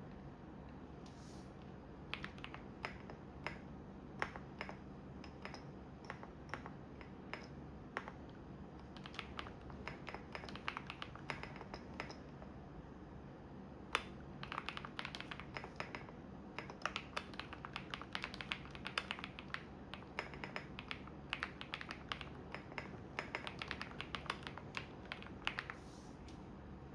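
Typing on a computer keyboard: runs of quick, irregular key clicks that start about two seconds in and stop shortly before the end. Under them is the low steady hum of a washing machine running.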